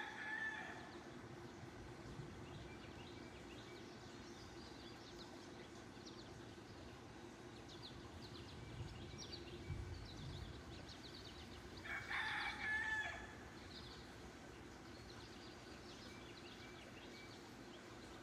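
A rooster crowing twice: one crow trailing off just at the start and a second, about a second long, roughly twelve seconds in, over faint outdoor background with small high chirps.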